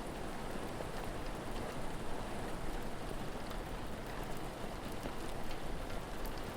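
Steady rain falling, with faint, scattered sharp pops from a crackling fire.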